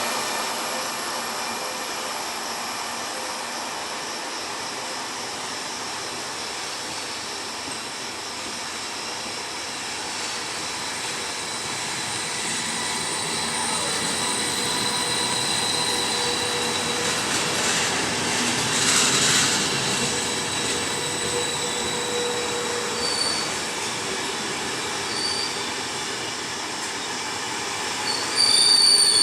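A train moving slowly through a station, its steel wheels squealing on the rails over a steady rolling noise. The squeal comes as thin high tones, with a few short sharp squeals near the end.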